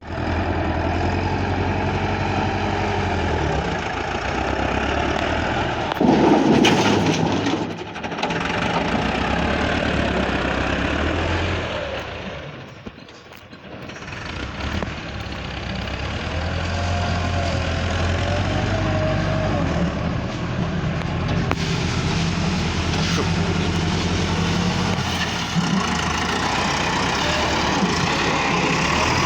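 Massey Ferguson tractor's engine running steadily, with a louder burst about six seconds in and a brief fade near the middle.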